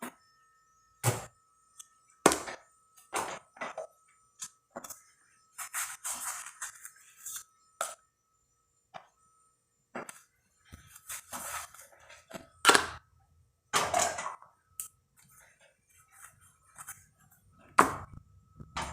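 Hard plastic refrigerator shelves, drawer and holders being handled and set down, giving irregular knocks, clicks and clinks, with a few short stretches of rubbing.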